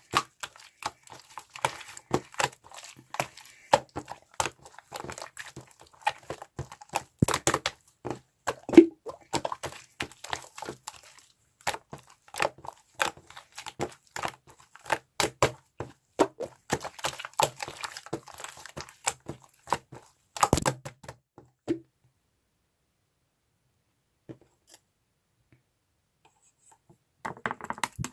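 Two-layer fondant slime being squished and pressed by hand, giving dense irregular crackling pops from the air bubbles trapped in it. The popping stops for several seconds near the end, then starts again just before it ends.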